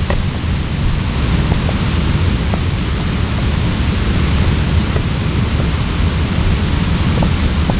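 Steady, loud rushing noise, heaviest in the low end, with a few faint short ticks scattered through it.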